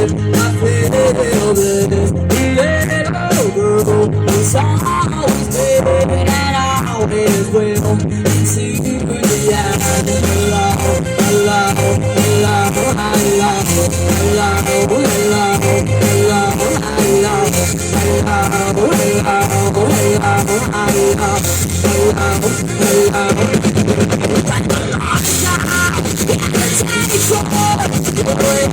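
A live rock band playing: electric guitar carrying a melodic line over bass and a drum kit. The cymbals come in about nine seconds in and stay loud to the end.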